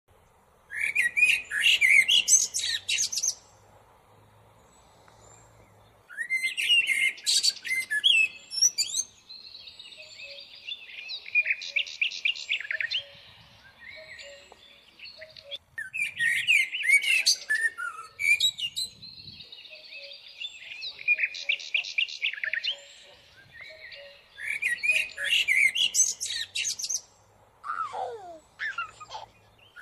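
Small birds chirping and singing in loud bursts of a few seconds each, with quieter warbling between them and a brief falling note near the end.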